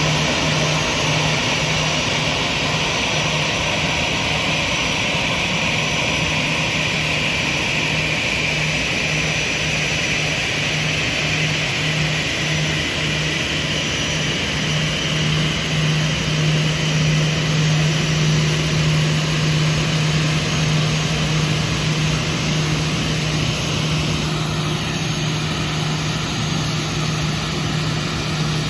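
Airbus A320 jet engines running at low power, a steady roar with a high whine that slowly drops in pitch and fades near the end, over a strong constant low hum.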